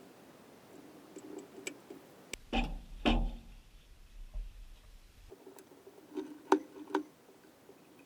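Metal engine parts and hand tools being handled during assembly: scattered light clicks, with two louder knocks a few seconds in and two more near the end.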